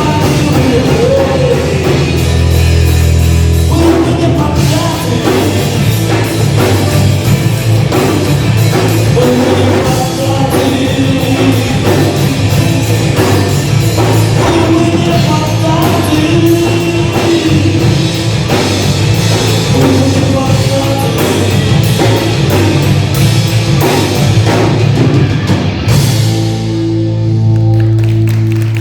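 Live rock band playing loud, with drum kit pounding under guitars and bass. About 26 seconds in the drumming stops and a final low chord is held ringing as the song ends.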